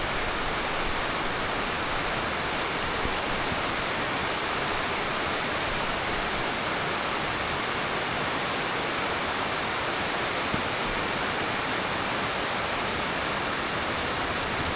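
Heavy monsoon rain falling steadily, an even, unbroken hiss with no single drops or other sounds standing out.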